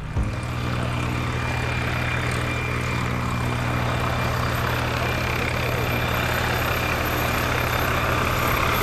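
Steady engine noise of a large vehicle: a constant low hum under a broad rushing hiss, starting abruptly.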